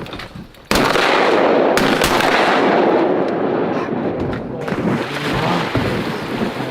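Shotgun volley at incoming ducks: sudden loud shots under a second in and again about a second later, followed by a loud, slowly fading rumble of overlapping shots and echo.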